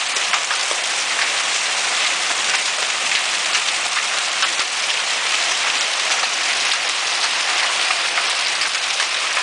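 Hailstorm with rain pelting down: a dense, steady hiss with many small ticks of hailstones striking.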